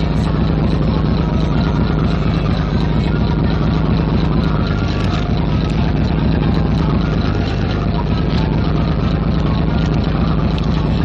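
Fishing boat's engine running steadily, a low even drone with rushing noise over it.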